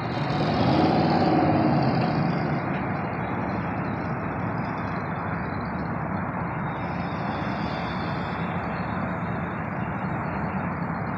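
Muscle car engine at a drag strip: a loud rev that rises and falls about a second in, then a steady heavy engine rumble.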